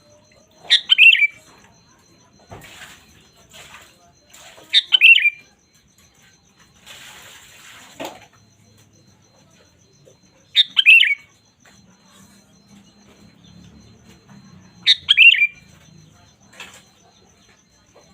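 Sooty-headed bulbul (kutilang) giving a short, loud, chattering call phrase four times, several seconds apart.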